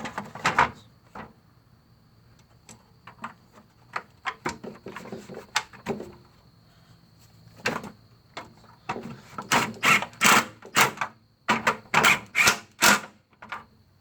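Irregular clicks and knocks of metal parts, bolts and hand tools being handled while a cover is fitted on a small mower engine. They are scattered at first and come quick and loud for the last few seconds.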